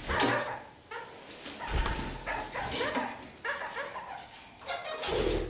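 Red-crowned parakeets (kakariki) chattering: a run of short, quick calls with brief pauses between them.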